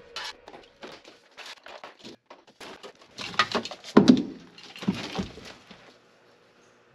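Irregular clicks, knocks and rustles of objects being handled, with a louder thump about four seconds in.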